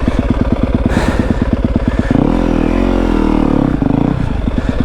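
Yamaha WR250F's single-cylinder four-stroke engine running at low revs with an even putting beat, then revving up and back down for about a second and a half in the middle.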